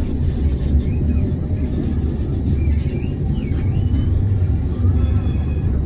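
Tram running between stops, heard from inside the car: a steady low rumble of wheels on rails, with faint high squeaks now and then.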